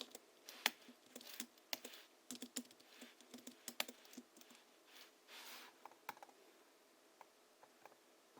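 Typing on a Hansung GHL-5X keyboard tuned with lubricated springs and 50 g rubber domes: quick runs of keystrokes for the first four seconds, a brief soft swish about five seconds in, then only a few scattered light taps.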